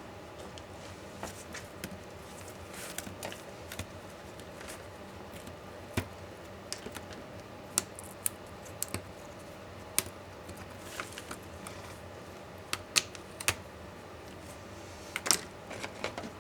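Irregular light clicks and taps of small plastic and metal laptop parts being handled and set down during disassembly, with a few sharper knocks.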